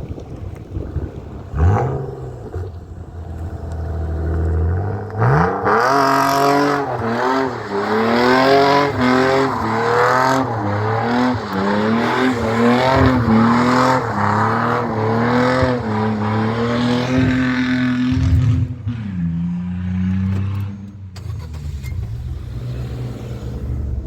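BMW E46 328i's straight-six engine revved hard through repeated throttle blips while doing donuts on a welded (locked) differential. The revs climb about five seconds in, rise and fall rapidly for around thirteen seconds, then drop back near the end.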